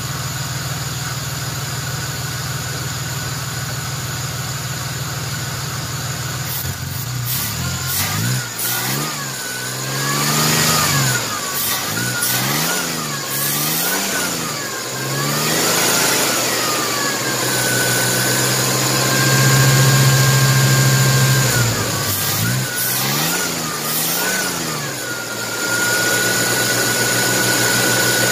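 1994 Chevrolet S10 Blazer's 4.3-litre CPI V6 with a newly fitted spider injector, running with its air intake off: it idles steadily for about seven seconds, then is revved up and down several times, with one longer hold at higher revs. It cuts up when given gas, which the owner thinks could be a part left unhooked.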